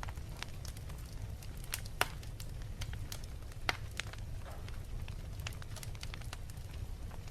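Wood fire crackling in a fireplace: irregular sharp pops, two louder ones about two seconds and three and a half seconds in, over a low steady rumble.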